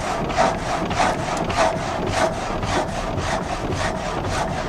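Water-wheel-driven vertical frame saw cutting a log. The blades rasp through the wood in a quick, even rhythm of strokes, about three a second, as the log is fed forward.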